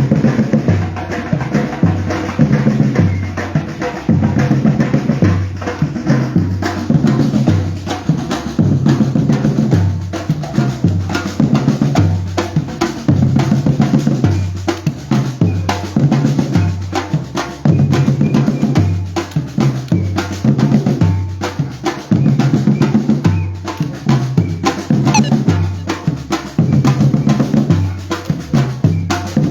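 Batucada drumming: a percussion ensemble playing a steady rhythm of deep bass drums under snare and rim hits.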